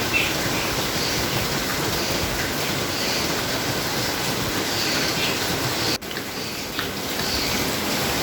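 Steady heavy rainfall, an even hiss of rain with no break except a brief dip about six seconds in.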